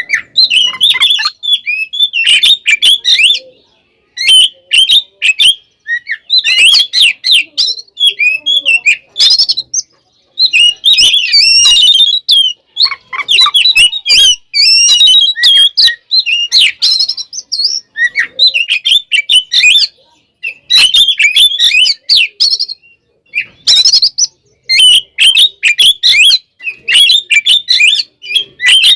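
Oriental magpie-robin (kacer) singing loudly in rapid, varied chirping and whistled phrases of a second or few each, broken by short pauses. It is the bird's aggressive fighting song, the kind used to provoke other male magpie-robins.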